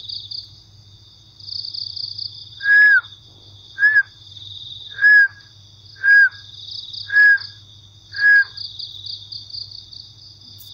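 Crickets chirring steadily, with a loud call of six short notes about a second apart from another animal through the middle, each note holding one pitch and dipping slightly at the end.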